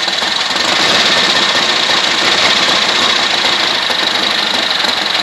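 1977 Harley-Davidson Ironhead V-twin engine running steadily with a fast, even mechanical chatter, just brought back to life on its first start after ten years standing. It gets a little louder about a second in, then settles back.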